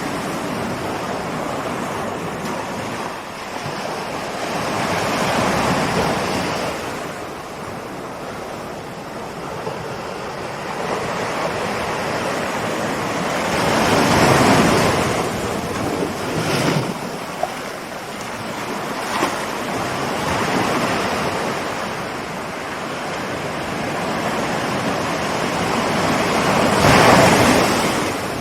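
Ocean waves breaking on a shore: the surf swells and falls back three times, with short sharp splashes in between. The loudest break comes near the end.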